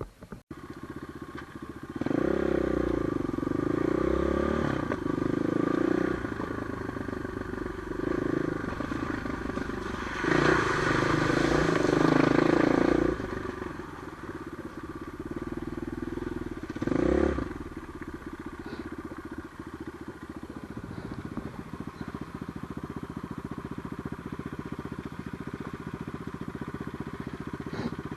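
Trail motorcycle engine being ridden, its note rising and falling with the throttle. Two louder bursts of revving come near the middle, then it settles into a steadier, lower run.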